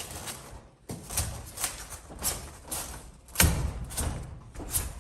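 Rigid foamboard insulation being pushed and worked into a metal garage door panel: a run of scraping, rubbing strokes about twice a second, with a heavy thump past the middle. The board cracks as it is forced in.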